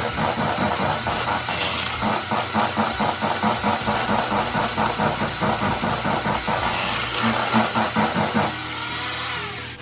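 Hand-held electric mixer running steadily with a high motor whine and a fast, even rattle as it creams shortening, sugar and eggs; it switches off near the end.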